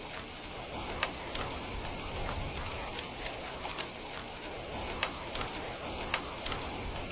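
Steady rain falling, with scattered sharp ticks and clicks of single drops or crackles breaking through.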